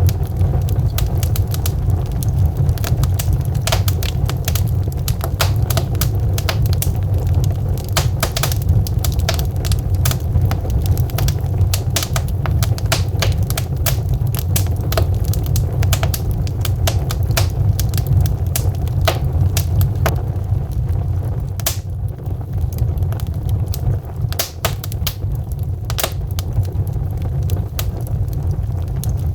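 Wood fire in a fireplace, burning logs crackling and popping in many irregular sharp snaps over a steady low rumble of the flames.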